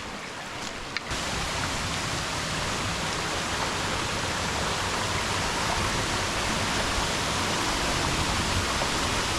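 Waterfall: falling water rushing steadily, growing louder and fuller about a second in.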